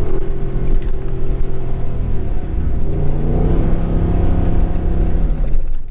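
Pickup truck engine working hard through soft sand, with a steady low rumble; the revs pick up again about three seconds in and drop off near the end.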